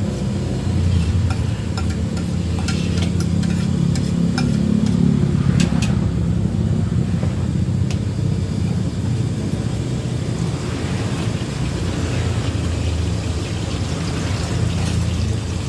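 Fried rice cooking in a wok: frying, with a metal spatula clanking and scraping against the wok several times in the first six seconds, over a steady low rumble.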